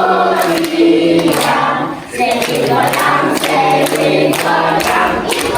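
A group of voices singing together, with a short break about two seconds in.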